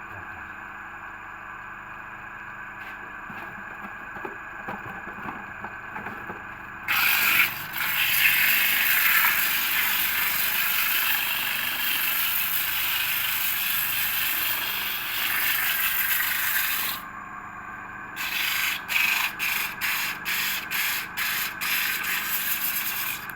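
Homemade lathe's motor humming steadily. About seven seconds in, a loud rasping scrape of a tool working the spinning workpiece starts and runs for about ten seconds, then after a short pause comes back as a quick string of short scrapes.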